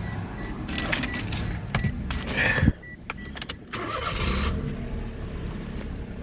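Daihatsu Mira's KF-VE three-cylinder engine running, with scattered clicks and a sharp knock. About three seconds in, the engine sound drops away for about a second. It then comes back after a short burst of noise and settles into a steady idle.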